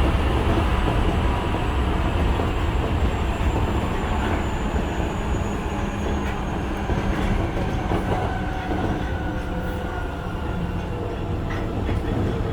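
Osaka Metro 66 series electric train with GTO-thyristor VVVF inverter drive, heard from inside a car: a steady rumble of wheels on rail with occasional clicks over rail joints. Thin tones from the traction motors and inverter glide slowly downward as the train slows.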